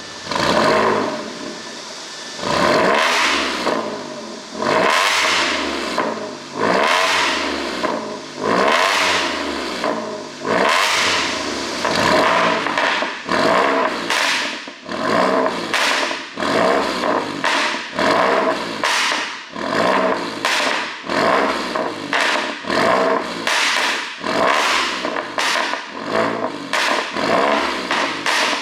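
Audi A7 50 TFSI supercharged 3.0 V6 being blipped over and over at a standstill. Each rev falls away with crackling exhaust pops from an ECU tune set up for pops and crackles. The blips come about every two seconds at first and quicker and shorter near the end.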